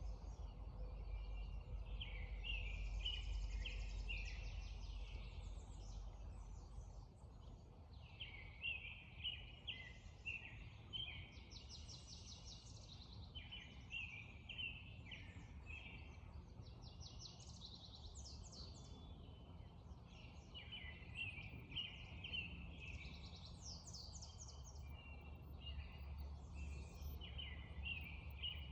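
Songbirds singing in a spring dawn chorus: several birds repeating short, quick phrases that overlap without a break, over a steady low background rumble.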